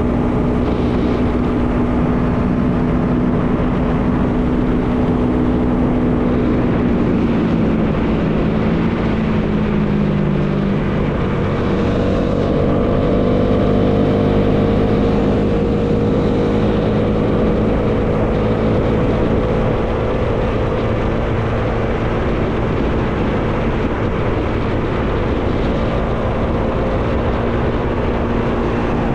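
Bajaj Dominar 400's single-cylinder engine running under way, with wind rushing past the rider. The engine note drops from about seven seconds in, then jumps to a higher steady note about twelve seconds in, as on a downshift.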